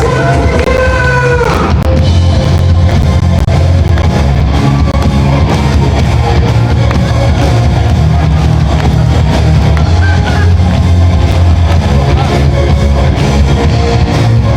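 Live band playing a loud rock song, with electric guitar and a drum kit; a held note slides downward in pitch over the first two seconds before the full band carries on.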